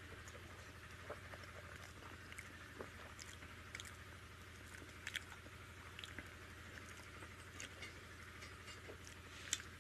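Faint eating sounds: chewing, with scattered soft wet clicks and smacks, as soft rice mixed with dal is eaten by hand. A low steady hum sits underneath.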